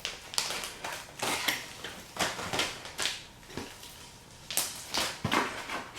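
Crinkling and rustling of fishing-tackle packaging being handled, in irregular crackly bursts with short pauses between them.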